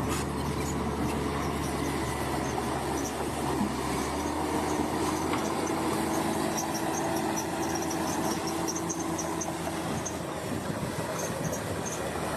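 Bulldozer working, its diesel engine running steadily under the metallic squeal and fine clicking of its steel tracks.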